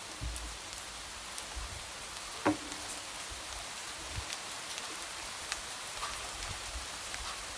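Light rain tapping against a window: a steady hiss with scattered single drop ticks. One louder tap with a short low ring comes about a third of the way in.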